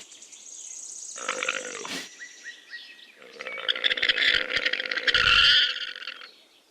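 Llama calling: a short call about a second in, then a long, loud call lasting about three seconds.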